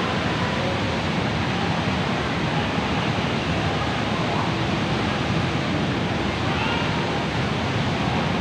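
Steady rushing of a large indoor waterfall, Jewel Changi's Rain Vortex falling through the glass dome, with faint voices in the background.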